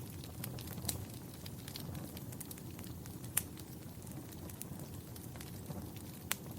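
Wood fire crackling: a steady low rush of flames with irregular sharp pops and snaps, the sharpest about three and a half seconds in and again near the end.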